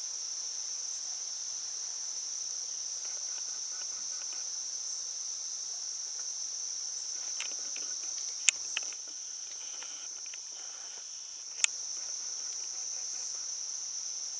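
Steady, continuous high-pitched shrilling of an insect chorus. Two sharp clicks sound about halfway through and again a few seconds later.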